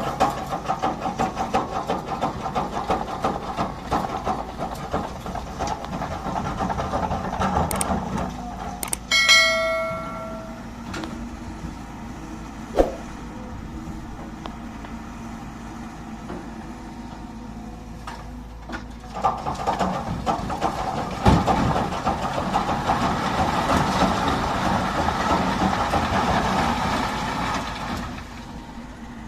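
Heavy diesel machinery running at a sand pit as a truck is loaded, with a short horn blast of about a second, about nine seconds in, and a couple of knocks later on.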